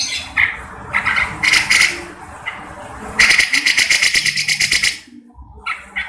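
Grey-cheeked bulbul (cucak jenggot) calling in harsh, scratchy bursts, then a rapid rattling chatter of about ten notes a second for nearly two seconds that cuts off suddenly; a few short calls follow near the end.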